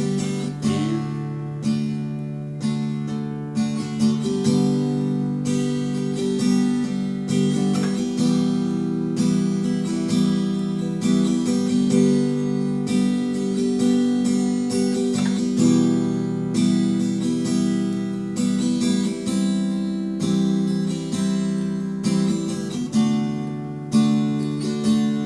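Acoustic guitar strumming chords in an instrumental break of a slow song, with no singing.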